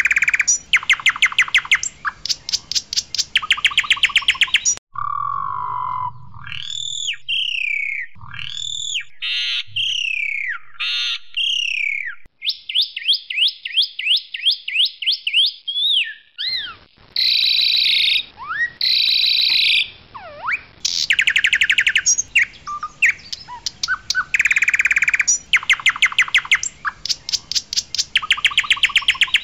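Asian pied starling singing a loud, varied song. Fast rattling trills give way to slurred whistled notes, then a rapid buzzy trill and chattering notes, before the rattles return. The switches between phrases are abrupt.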